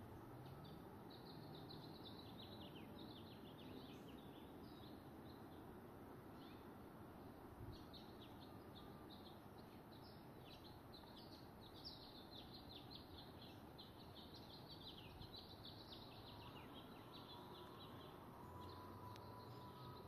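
Faint birdsong: small birds twittering with rapid, high, quick-falling chirps throughout, over a low steady background hiss.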